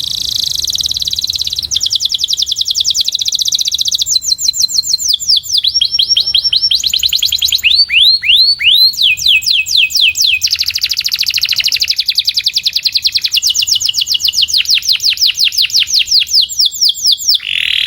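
Domestic canary singing one long unbroken song of rapid trills, each a fast run of the same high note that switches to a new trill every second or few. About eight seconds in come a few slower notes sweeping downward. The song stops abruptly near the end.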